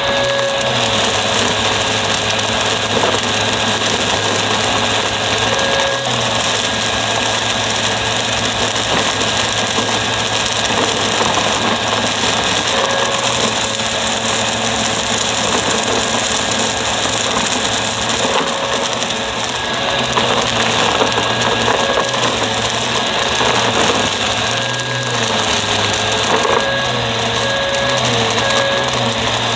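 Upright vacuum cleaner running steadily with its motor whine and brushroll noise, the motor pitch dipping and wavering briefly a few times near the end as the load changes.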